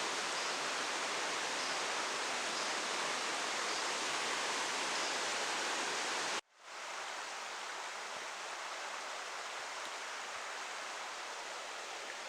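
Steady rushing of a fast-flowing river's current. The sound cuts out abruptly for a moment about six seconds in, then comes back a little softer.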